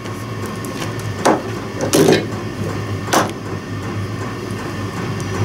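Three hammer blows from nearby, about a second apart, over a steady low hum.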